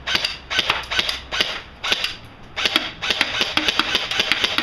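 Airsoft BB gun being cocked and fired: a rapid, irregular series of sharp clacks and pops, coming thickest in the second half.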